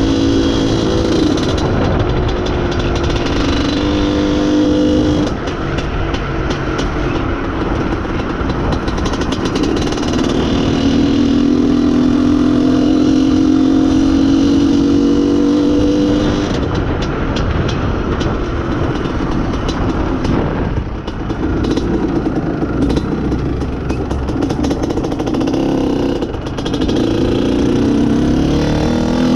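IZh Planeta Sport's single-cylinder two-stroke engine under way, its note climbing as it pulls and dropping briefly several times as the throttle is eased or gears are changed. The owner blames its poor pulling on a lean mixture at wider throttle.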